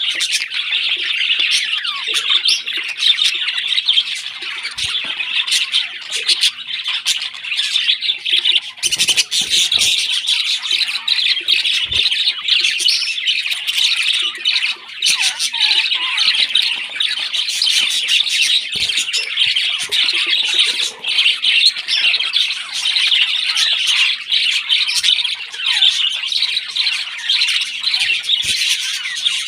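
Parrot chicks squawking and chirping without pause in a dense, high chatter, the begging calls of young parrots being fed.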